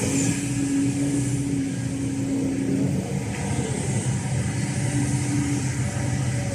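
Kobelco SK210LC excavator running: its Hino J05E-TG four-cylinder turbo diesel engine and Kawasaki K7V hydraulic pump. The engine runs at a steady speed, with a higher steady note that fades about halfway through and comes back near the end.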